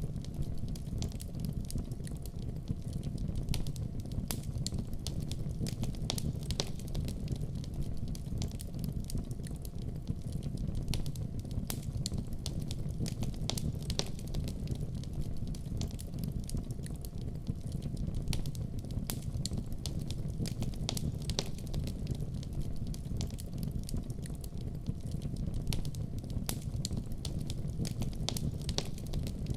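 Wood fire in a fireplace, crackling: a steady low rumble of flames with many irregular sharp pops and snaps.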